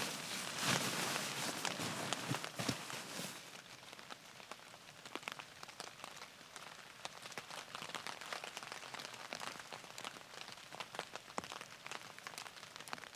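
Rain pattering on a tarp shelter, with scattered individual drops ticking on it; louder for the first few seconds, then softer.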